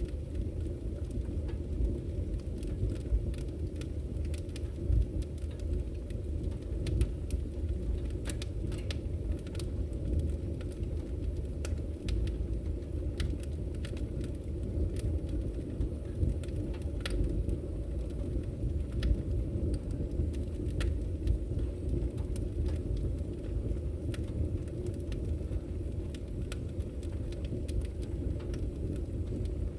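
Wood fire burning in a fireplace: a steady low rumble of flames with scattered, irregular crackles and pops of the burning wood.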